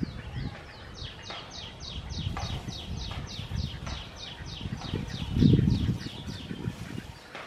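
A bird calling a rapid series of short, high, falling notes, about six a second, for some four seconds, over a low rustle with a louder low rumbling rustle about five and a half seconds in.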